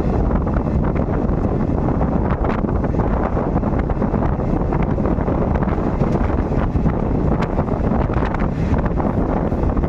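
A moving train running steadily: a constant low rumble with wind buffeting the microphone and faint scattered clicks.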